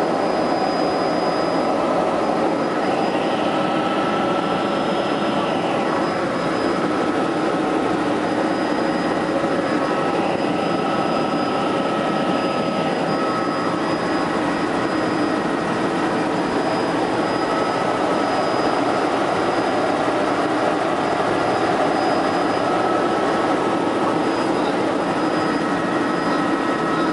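Helicopter in flight: steady turbine and rotor noise with a few constant high whining tones over a dense rumble.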